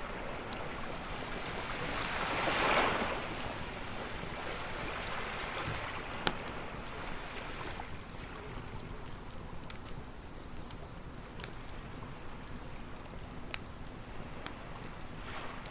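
Ocean waves washing onto a shore, one swelling in and fading about three seconds in, with a wood campfire crackling in scattered sharp pops, the loudest about six seconds in.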